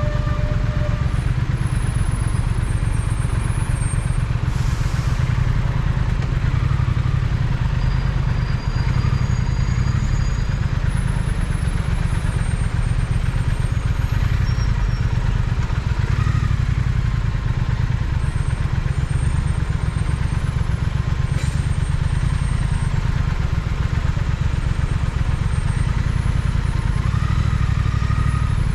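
Triumph Speed Twin's parallel-twin engine running steadily under way, a constant low engine note with no big revs or pauses.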